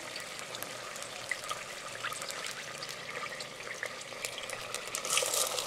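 Chili paste, chopped garlic and ginger frying in hot oil in a stainless steel pot: a steady sizzle with small crackles. Near the end the sizzle grows louder as sliced onions are tipped into the oil.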